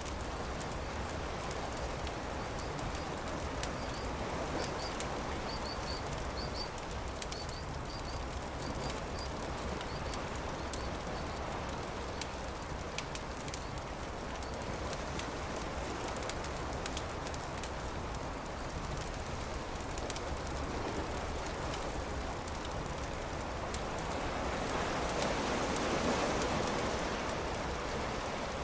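Campfire crackling with many small pops over a steady wash of surf. A bird calls a quick series of short high chirps in the first ten seconds, and a wave swells up near the end.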